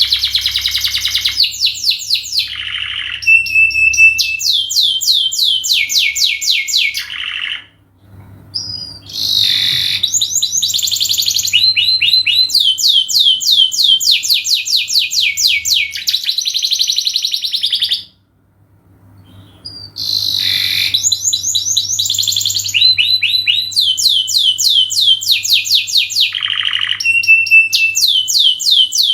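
Domestic canary singing long, loud song made of rapid trills, one run of quickly repeated high notes after another, with two brief pauses about eight and eighteen seconds in. A faint steady low hum lies underneath.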